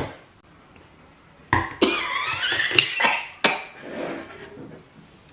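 A person's vocal outburst, cough-like and with sharp starts, beginning about one and a half seconds in and lasting about two seconds, then trailing off more quietly.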